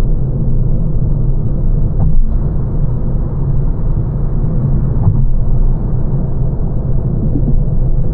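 Steady low rumble of road and tyre noise inside a 2025 Lancia Ypsilon's cabin while driving, with two faint knocks about two and five seconds in.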